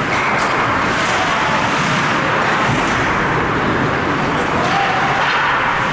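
Ice hockey rink noise during play: a steady loud hiss-like roar with a few brief high scrapes, such as skates cutting the ice, and faint distant voices.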